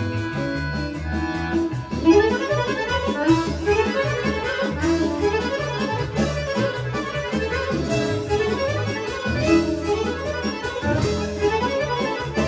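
Folk orchestra playing a fast Serbian kolo, with accordion leading over a steady bass-and-chord beat. Held notes give way about two seconds in to quick running lines.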